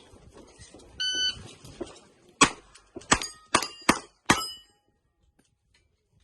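An electronic shot-timer start beep about a second in, then five revolver shots in quick succession, each followed by the ring of a struck steel target plate.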